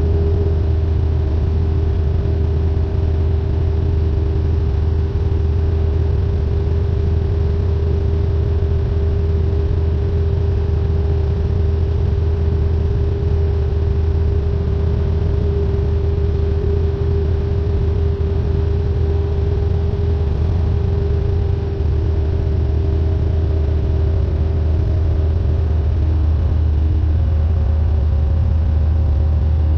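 Cessna 172N's four-cylinder Lycoming engine and propeller running in a steady drone, with a low hum and a steady higher tone that hold unchanged throughout.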